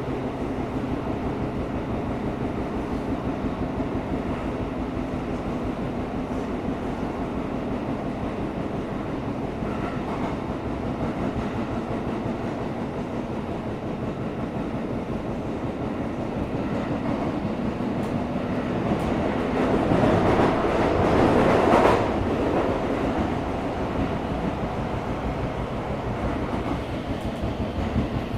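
Tokyo Metro 17000 series electric train running at speed, heard from inside the car: a steady rumble of wheels on rail with a low motor hum. It swells louder for a few seconds about twenty seconds in, then settles back.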